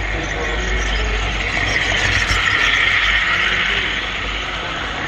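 Model train running on the layout, heard from the camera car riding the rails: a steady rolling rumble and rattle, with a hissing swell that rises and fades over the middle couple of seconds.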